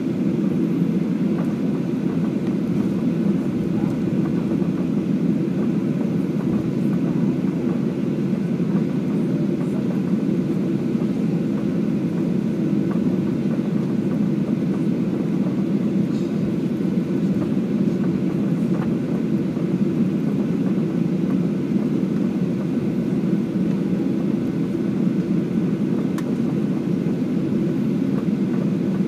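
Steady low rumble inside a jet airliner's cabin while it taxis after landing.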